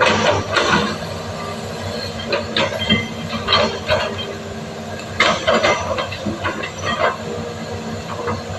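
Excavator working, its diesel engine running steadily under repeated irregular metallic clanks and squeals of the steel tracks and machinery.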